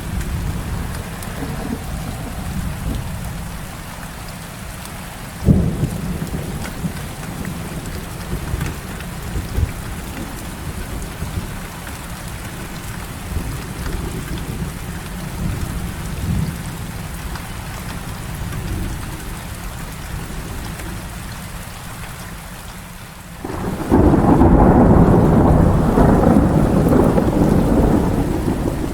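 Heavy rain falling steadily under rolling low thunder. There is a sharp crack about five seconds in, and near the end a loud thunderclap breaks suddenly and rumbles on.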